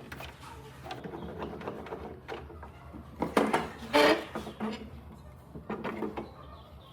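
Scattered knocks and clatter, as of wood being handled, with a louder cluster about three to four seconds in, over a steady low hum.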